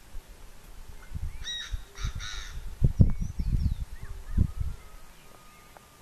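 Three short calls in quick succession from a francolin, about one and a half seconds in, over repeated low thumps of wind on the microphone. Faint chirps of small birds come later.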